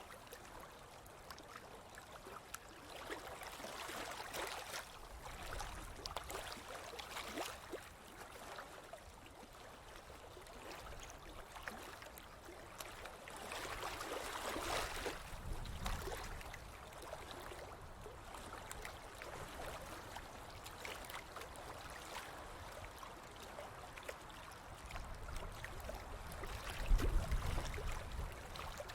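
Small ocean waves washing onto a beach, a soft hiss that swells and fades every few seconds, with a brief low rumble near the end.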